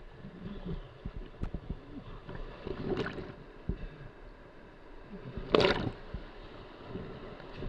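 Kayak paddle strokes splashing in moving river water, with a loud splash about five and a half seconds in. Low thumps and wind on the microphone come in between the splashes.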